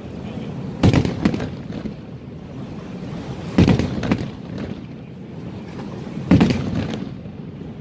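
Aerial firework shells bursting: three loud booms about two and a half seconds apart, each followed by a smaller bang and a fading low rumble.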